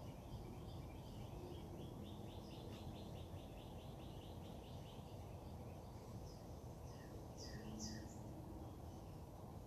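Backyard birds singing: one bird gives a fast trill of evenly repeated notes for the first half, then another gives a few louder short chirps near the end, over a steady low background hum.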